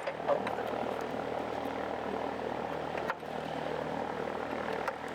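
A steady, engine-like drone runs throughout, with two short sharp knocks: one at the start and one about three seconds in, consistent with hammer blows on a punch driving out a bolt.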